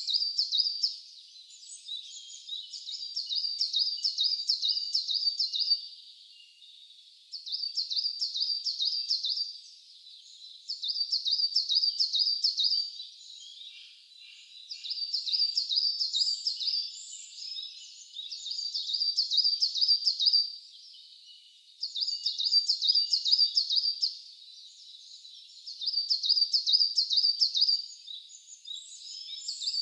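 A bird singing the same phrase over and over: a quick string of high, sharp notes lasting about two seconds, repeated roughly every three and a half seconds.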